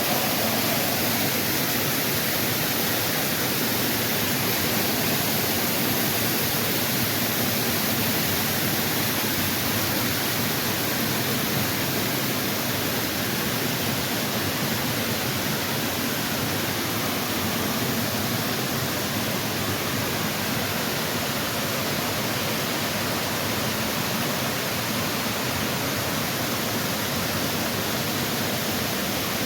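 Minnehaha Falls, a cascading waterfall, rushing steadily with a constant, even roar of water.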